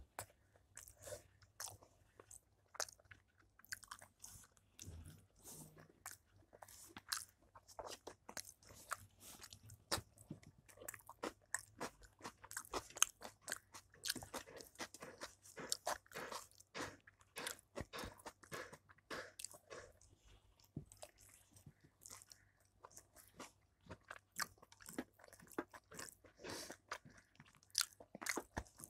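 A person chewing mouthfuls of rice and curry, with many short, irregular crunching and smacking clicks.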